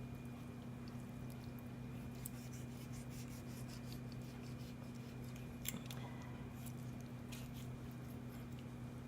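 Kitchen knife cutting through a raw chicken wing at the joint: faint scraping and crackling with a few small clicks, over a steady low electrical hum.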